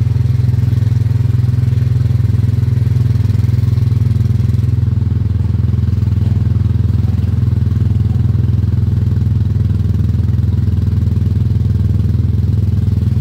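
Small engine of a kiddie ride car running steadily as the car drives along its track, a low, even drone.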